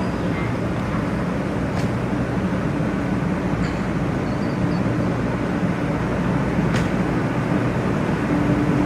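Steady running noise of a 500 series Shinkansen heard from inside a passenger car: an even rush of rolling and air noise over a low, steady hum. Two faint clicks sound, about two seconds in and near the end.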